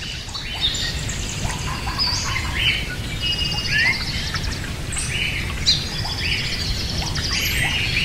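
Birds chirping and whistling, several short calls overlapping, with a fast high trill a few seconds in. A steady low rumble runs underneath.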